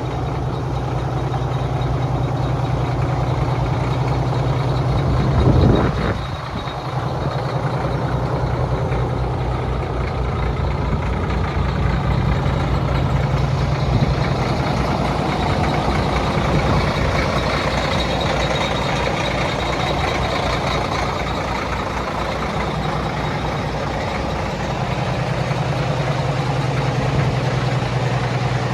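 Heavy diesel engine of an Oshkosh snow blower truck, a Caterpillar 1673C, running steadily. There is a short, loud burst about six seconds in, and more high-pitched noise from about halfway through.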